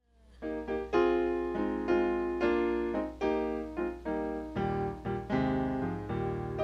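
Keyboard playing a worship-song introduction: chords struck about once a second, each ringing and fading, with a bass line joining a little past halfway.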